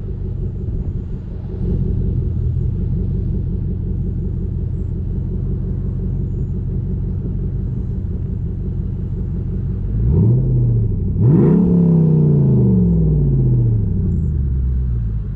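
Jeep SRT8's V8 running through a Gibson cat-back exhaust with a steady low drone, then revved up sharply twice about ten seconds in, its pitch falling slowly away afterwards.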